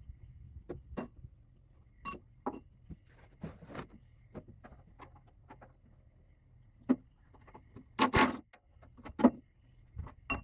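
Irregular metal clinks and knocks of hand tools and parts being handled while taking a plate off a hydraulic cylinder, with a louder clatter about eight seconds in.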